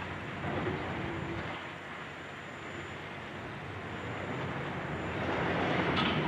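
High-reach excavator running during demolition work, a steady mechanical rumble that grows louder toward the end, with a brief sharp knock near the end.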